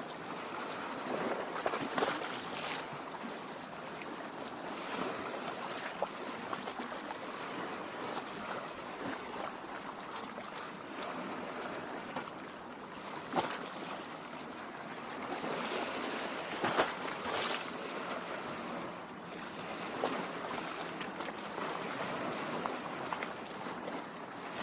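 Lake water lapping and gurgling against the shore and rocks, a steady wash with small splashes now and then.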